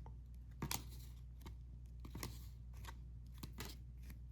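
Trading cards being handled and flipped through by hand: a handful of light clicks and slides of card stock, over a steady low hum.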